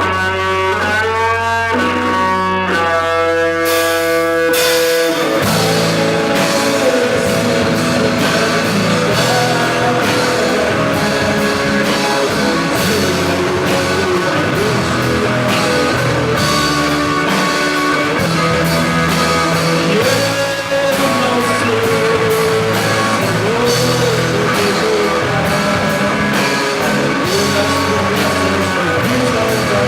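Live rock band playing: an electric guitar picks a melodic phrase over a held low bass note. About five seconds in, the drum kit and the full band come in together.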